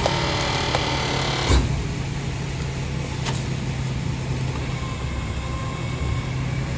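Rear-loader garbage truck's diesel engine idling with a steady low hum, with a short knock about one and a half seconds in.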